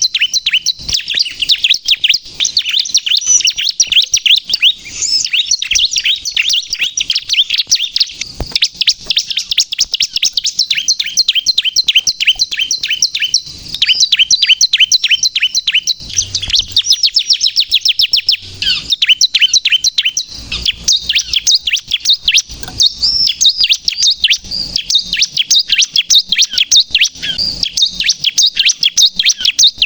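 Bar-winged prinia (ciblek) singing constantly, a fast string of high, sharp chirping notes with only brief pauses.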